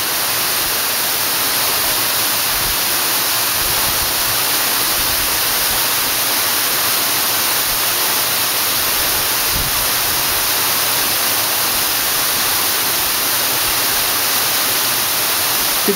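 Steady rushing hiss of an 80-foot waterfall, a dense roar of falling water that is strongest in the high pitches and never lets up.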